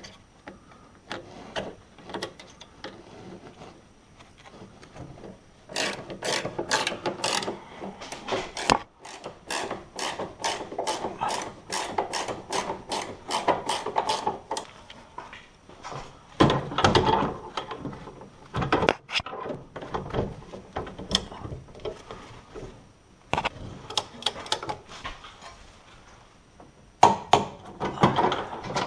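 Ratchet wrench clicking steadily, about two clicks a second, as a bolt is turned, followed by scattered knocks and clatter of tools.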